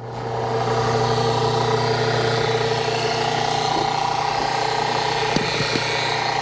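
Engine of a hydraulic log splitter running steadily, its level swelling a little in the first second, with a couple of faint knocks near the end.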